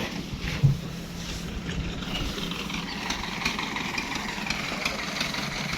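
An engine running steadily at idle, with a single sharp knock about half a second in.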